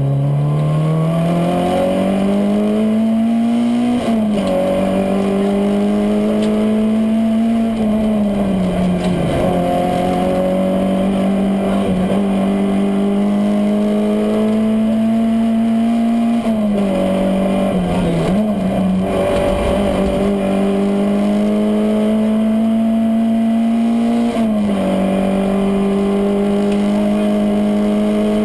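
Citroën AX GTI Group A rally car's 1.4-litre four-cylinder engine at full throttle, heard from inside the cabin. It revs up hard and changes up a gear about every four seconds, each shift a sudden drop in pitch. About two thirds of the way through it drops back and blips through downshifts under braking for a corner before pulling hard again.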